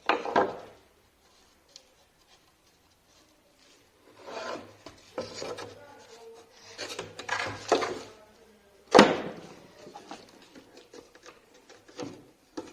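Irregular scraping and rubbing of wooden parts being handled, with a sharp knock about nine seconds in.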